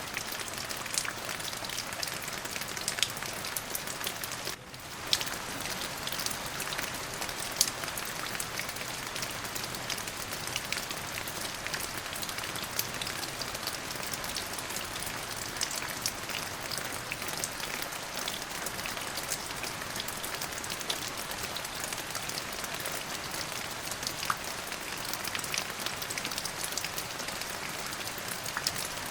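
Steady rain falling: a dense, even hiss with many individual drops ticking sharply through it. The level dips briefly about four and a half seconds in, then carries on as before.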